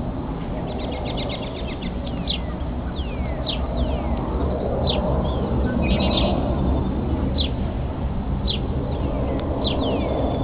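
Wild birds calling: many short down-slurred whistles, one every second or so, with a rapid chattering trill about a second in and another about six seconds in, over a steady low rumble.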